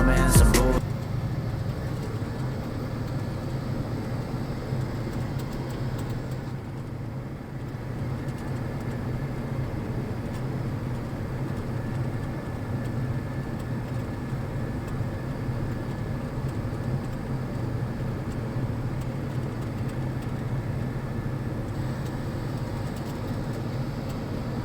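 A motor engine running steadily, a low even drone that dips slightly about seven seconds in.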